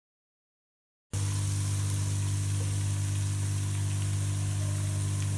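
Ginger-garlic paste sizzling in hot oil in a pot, over a steady low hum. The sound starts abruptly about a second in and then holds steady.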